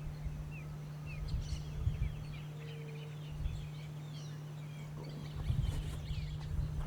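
Small birds calling with many short, high chirps that slide downward, some close together, over a steady low hum.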